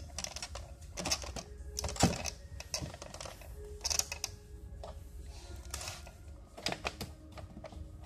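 Irregular small clicks and knocks of hands handling UPS batteries and their connectors during battery replacement in an APC UPS, with a sharper knock about two seconds in.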